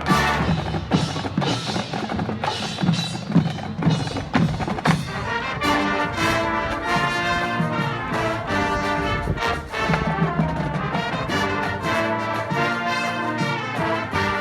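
High school marching band playing: a run of sharp percussion hits for the first five seconds or so, then the horns come in with held chords over the drums.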